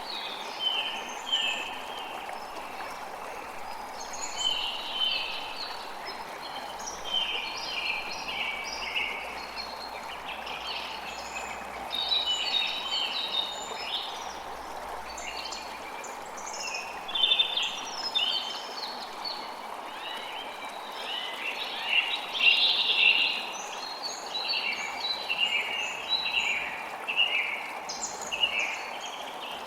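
Many birds chirping and trilling in short, overlapping calls over a steady rush of running water.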